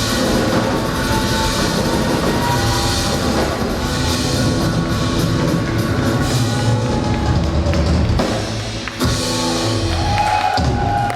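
Live rock band playing the closing instrumental bars of a song, with the band cutting off near the end.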